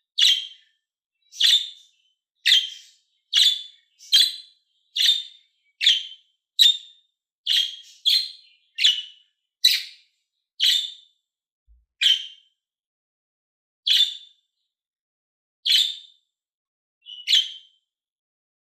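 Budgerigar giving short, sharp chirps one after another, about one a second at first and more spaced out in the second half, some seventeen calls in all.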